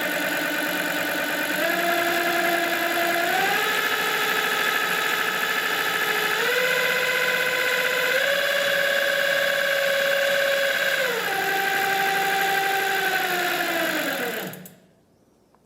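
Bafang BBSHD mid-drive e-bike motor with a brass replacement reduction gear, running at 72 V, its gear whine stepping up in pitch four times as the speed rises. It drops back about eleven seconds in, then winds down and stops near the end.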